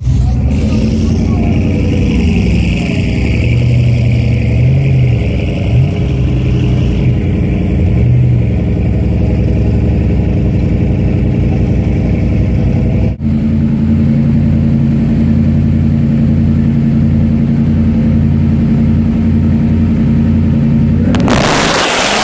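Pickup truck engines idling with a steady low drone and a few light revs; the engine note changes abruptly about two-thirds through. About a second before the end a loud rushing noise comes in.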